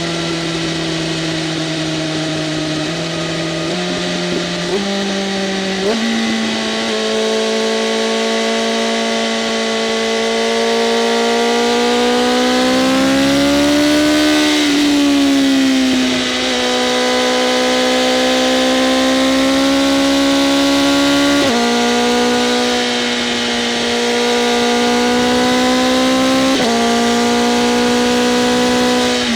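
BMW M1000RR's inline-four engine running through an SC-Project CRT exhaust with the flaps open, while the bike is ridden. The note steps up in pitch four times in the first few seconds, swells and falls back around the middle, and drops suddenly twice later on, as at upshifts.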